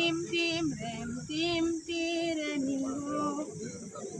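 High voices singing a song, a melody of held notes in short phrases with brief breaks between them.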